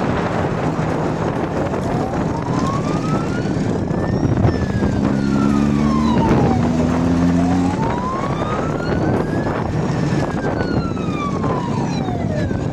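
Police car siren in a slow wail, its pitch rising and falling about every five to six seconds, over a steady rushing noise. A steady low tone sounds for a few seconds in the middle.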